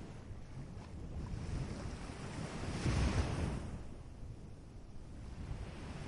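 Ocean waves on a beach: a steady wash of surf that swells to its loudest about halfway through, as a wave breaks, then recedes, over a low rumble.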